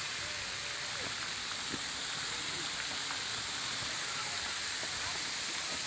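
Steady rain falling, an even hiss, with faint distant voices of people at the pool.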